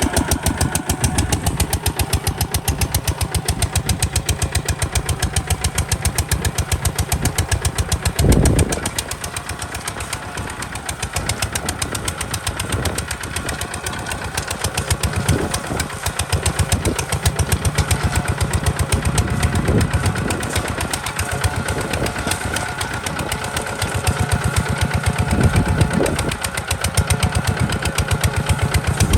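Kubota RT140 DI single-cylinder diesel engine of a walking tractor running steadily with a fast, even firing beat. A louder thump comes about eight seconds in, and a few weaker ones later.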